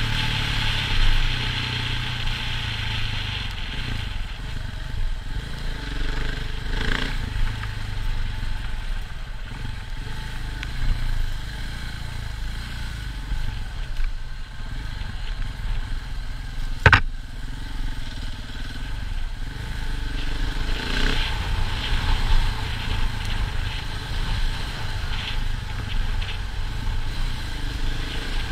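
KTM 690 single-cylinder dirt bike engine running at low speed over a rough lane, quieter through the middle and picking up again in the last third. A single sharp knock, the loudest sound, comes a little over halfway through.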